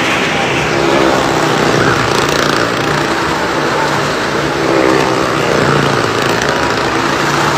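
Cars driving around the vertical wooden wall of a well-of-death stunt show, their engines running hard in a loud, steady drone.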